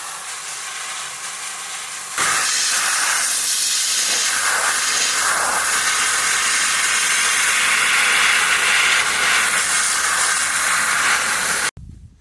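Sandblaster blasting fine-grit abrasive through a small 3/32-inch nozzle onto a rusty steel truck frame: a loud, steady hiss that steps up louder about two seconds in and cuts off abruptly near the end.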